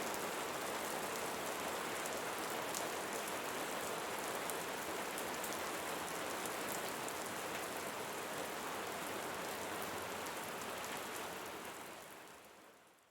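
Steady rain falling on a surface, an even hiss with fine drop patter, fading out over the last two seconds.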